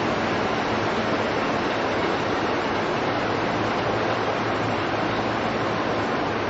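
Steady rumble and hiss of an E233-2000 series electric commuter train heard from inside the passenger car while running between stations. It is even throughout, with a constant low hum under a wide hiss, and the recording carries extra noise from a recorder settings error.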